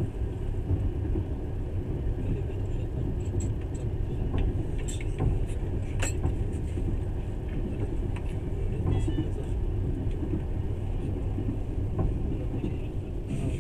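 Passenger train running, a steady low rumble of wheels on rails heard from inside the carriage, with a few light clicks and rattles.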